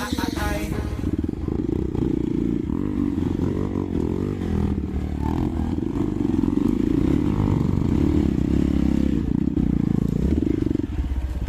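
Hero Xpulse 200 single-cylinder motorcycle engine running with revs rising and falling, getting louder about halfway through. The tail of background music fades out in the first second.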